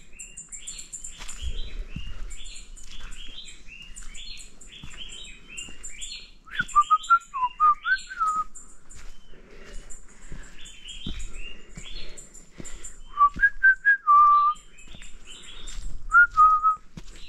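Several forest birds calling together, with quick repeated chirps and a very high rapid ticking throughout. Three spells of loud, clear whistled notes come about a third of the way in, about three-quarters in and near the end.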